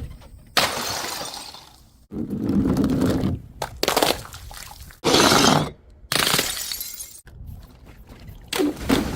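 Glass bottles smashing and shattering, several separate breaks in a row, each starting suddenly and cut off abruptly.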